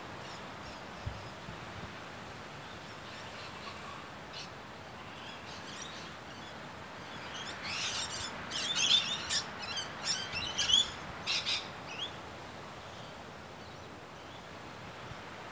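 Birds chirping and calling, a quick flurry of short, high calls that starts about halfway through and lasts some four seconds, over a steady outdoor hiss.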